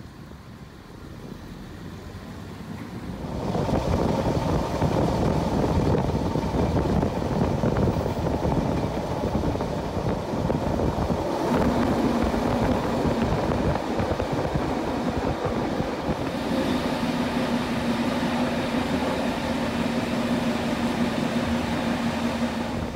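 Fiat M4 diesel railcar running through a tunnel, heard through an open window: a loud rumble of wheels and engine that swells suddenly about three seconds in as the train enters the tunnel, with a steady hum joining about halfway through.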